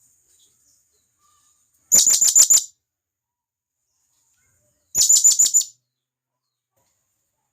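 Serindit hanging parrot giving its loud, sharp contact call, the call to companions. It calls in two short bursts of about five rapid shrill notes, a few seconds apart.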